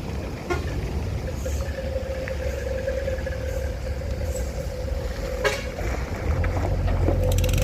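Truck on the move, its engine and road rumble running steadily with a few sharp knocks and rattles; the low rumble grows louder near the end.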